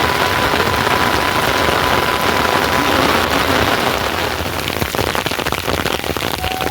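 Heavy rain falling, a dense patter of drops on surfaces. A faint steady high tone is held through the first half.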